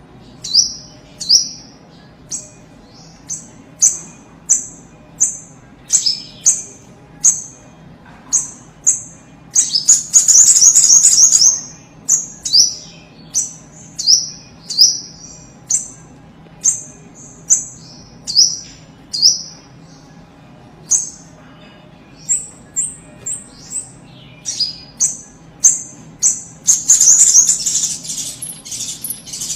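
A sogok ontong (little spiderhunter) calling energetically: short, sharp, high-pitched notes repeated about one or two a second, broken twice by a longer rapid chattering run.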